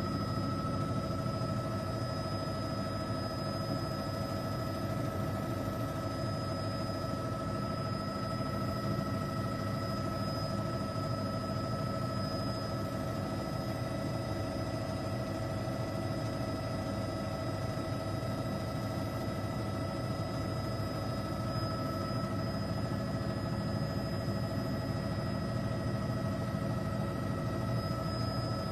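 Helicopter cabin noise: engine and rotor drone, steady and unchanging, with a constant whine over it.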